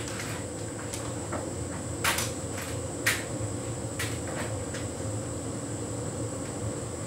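Hotpoint heat pump tumble dryer running mid-cycle on synthetics: a steady hum of the drum motor and heat pump with a thin high whine. There are a few light knocks about two, three and four seconds in, as the load tumbles in the drum.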